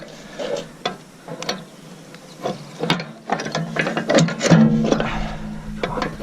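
Socket ratchet clicking in short bursts as a bolt on the roller's bearing housing is tightened. A steady low hum joins about four and a half seconds in.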